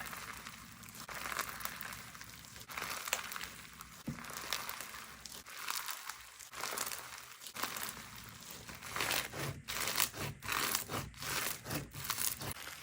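Slime being squeezed and worked by hand, a soft crackling and crinkling with sharper clicks and pops in the last few seconds.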